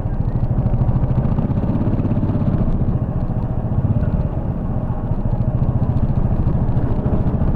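Royal Enfield Bullet 350's single-cylinder four-stroke engine running steadily, a fast, even beat of exhaust pulses.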